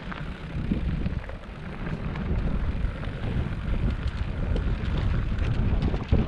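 Wind buffeting the microphone: a loud, unsteady low rumble that swells and drops.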